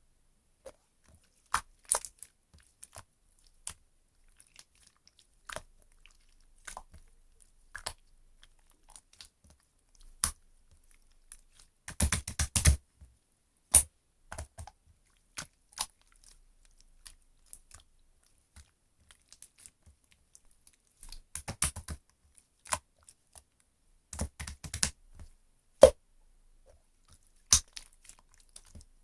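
Slime being squished and poked by hand, giving scattered sticky clicks and pops with a few denser bursts of crackling.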